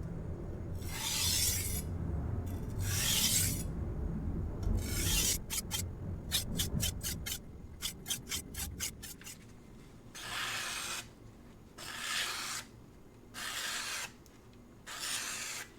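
VG10 knife blade drawn edge-leading across a wet King 300-grit whetstone, a gritty scrape with each stroke, to take off the burr. Three slow strokes, then a quick run of short strokes at about four a second, then four more slow strokes.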